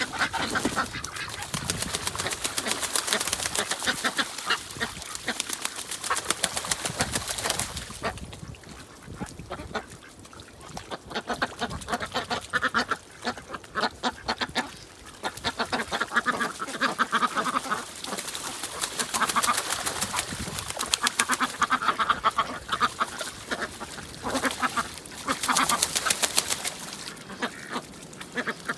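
A flock of ducks quacking, a dense run of short, rapid calls that thins out about eight seconds in and then picks up again.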